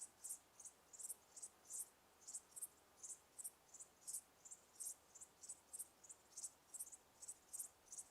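Crickets chirping: short, high-pitched chirps repeating rhythmically, several a second, over a faint steady background.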